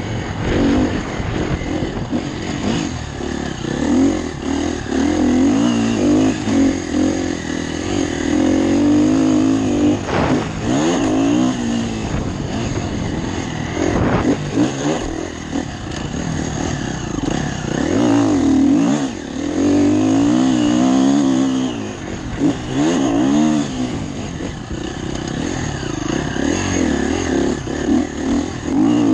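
Motocross motorcycle engine revving hard and then easing off again and again as the rider accelerates and shifts around the track, heard close up with wind rushing past a helmet-mounted camera.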